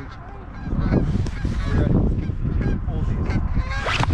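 A large flock of geese honking, many calls overlapping at once, as the birds circle and come down to land.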